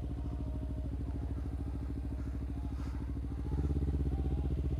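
Kawasaki Ninja 300's parallel-twin engine running steadily at low revs. About three and a half seconds in it gets louder and fuller.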